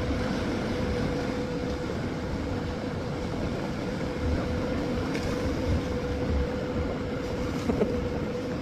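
Boat engine running steadily, a constant whine over a low rumble.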